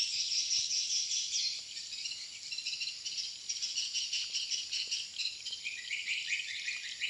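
Dense, continuous high twittering of many swiftlets calling together.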